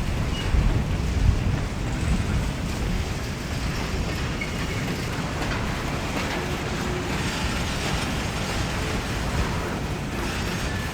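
Wind buffeting the microphone: a gusty low rumble that is strongest in the first second, then settles to a steadier rush.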